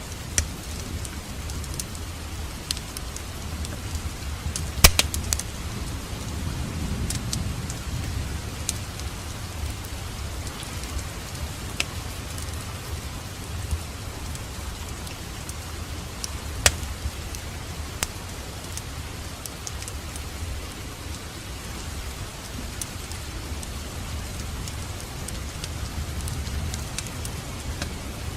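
Wood fire burning in a fireplace: a steady low rumble of flames with scattered sharp crackles and pops, the loudest pop about five seconds in.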